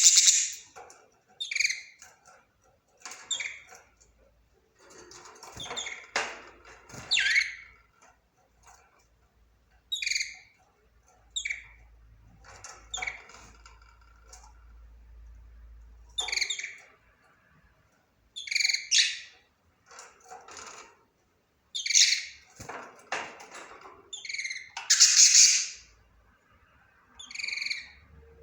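Budgerigar chirping and warbling in short high calls, in irregular bursts with pauses between.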